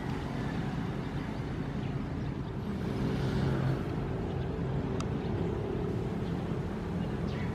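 Ocean waves: a steady low rumble of surf, with one wave swelling and washing louder about three seconds in, then easing back.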